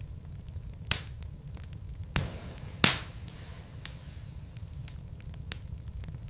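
Wood burning in a fireplace: crackling with scattered sharp pops, three louder ones in the first three seconds, the last the loudest, over a steady low rumble of the flames.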